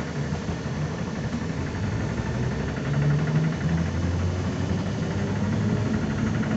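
Running noise of a ZiU-9 trolleybus heard from inside the cabin, with a low electric hum that comes in about halfway through and shifts in pitch.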